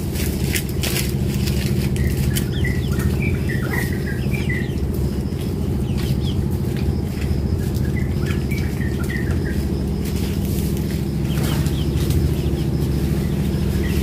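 Birds chirping in two short runs of quick calls, over a loud steady low hum and scattered light clicks or rustles.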